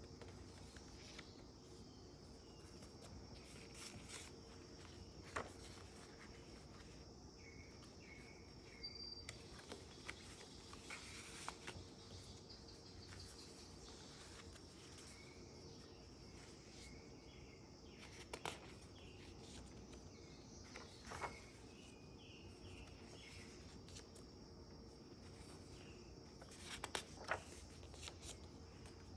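Very quiet handling of a handmade paper junk journal: scattered soft rustles and clicks of pages being touched and turned, over a low steady hiss. There is a small cluster of them near the end.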